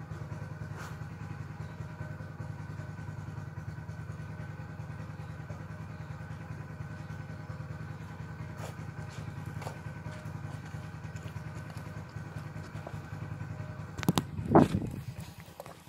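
Honda CG125's air-cooled single-cylinder four-stroke engine running steadily, with no revving. About 14 s in, loud knocking and rustling as the phone recording it is picked up and handled.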